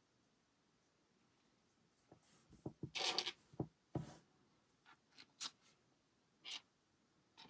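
Plastic LEGO pieces being handled and fitted together: a quiet start, then a run of small clicks and rustles from about two seconds in, busiest a second later, thinning out to a few clicks near the end.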